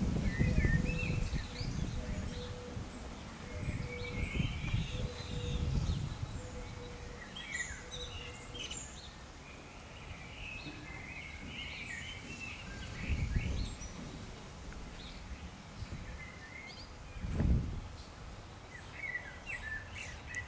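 Small birds chirping and twittering in the background, with a low rumble and a faint steady hum during the first six seconds and two brief low thumps later on.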